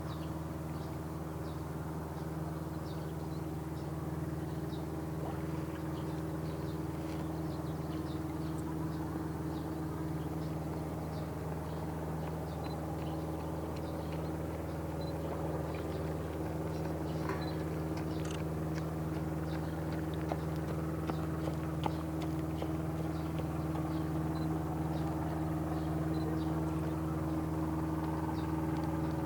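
A steady, low engine hum holding several tones with no change in pitch, with faint scattered high ticks over it.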